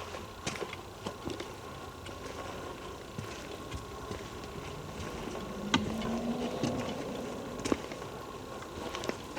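Footsteps and small cracks of twigs on a forest floor, with clicks and knocks from a handheld camera being carried. A brief low buzz comes in about six seconds in.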